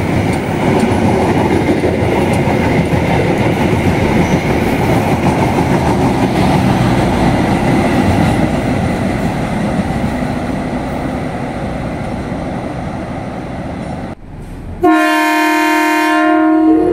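Locomotive-hauled passenger train, a CC206 diesel-electric with intercity coaches, rolling past with a steady clatter of wheels over the rails for about 14 seconds. After a sudden cut, a single steady train horn blast lasts about two seconds.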